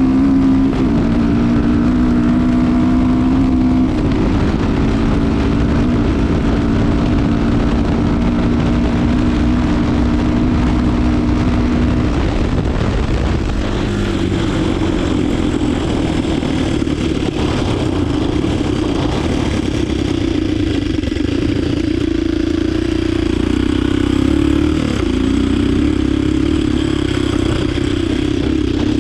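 Yamaha DT 125 motorcycle with a swapped-in 250 cc four-stroke Diabolini engine running at steady revs. Its note shifts a few seconds in and changes again about halfway through.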